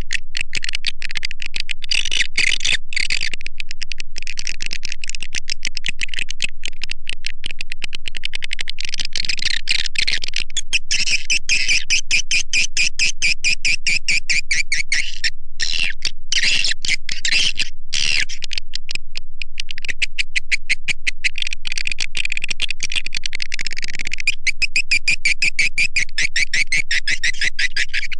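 Swiftlet lure-call recording: a dense, rapid stream of high chirping calls, with a few short breaks about halfway through. This is the kind of call played in swiftlet houses to draw swiftlets in to roost and nest.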